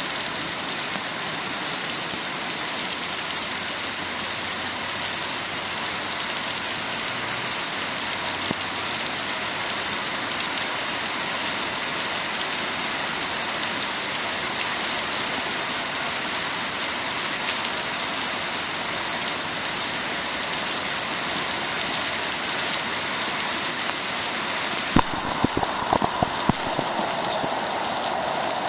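Steady rain falling and hitting the ground, an even hiss of many drops. About 25 seconds in, a few sharp clicks sound and the rain takes on a lower, fuller splashing tone.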